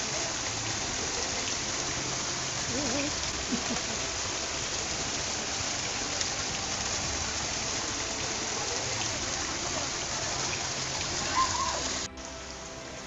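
Waterfall rushing steadily, an even hiss of falling water; about twelve seconds in it cuts abruptly to a quieter, thinner rush.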